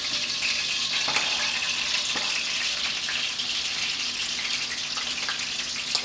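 Cubes of salt pork frying in hot oil and melted butter: a steady hissing sizzle, with a couple of light clicks from a utensil.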